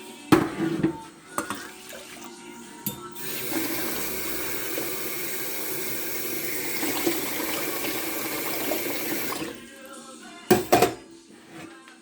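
Kitchen tap running steadily for about six seconds, between a few sharp clatters before it and two loud knocks after it stops.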